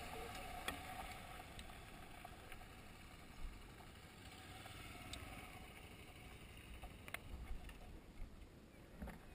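Honda XRE 300 single-cylinder motorcycle engine running faintly, fading over the first few seconds as the bike slows on a gravel dirt road. Occasional light clicks and knocks.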